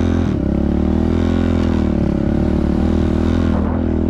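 Small four-stroke single-cylinder pit bike engine running under throttle, its pitch rising at the start, then holding with small wavers and dropping briefly near the end before picking up again.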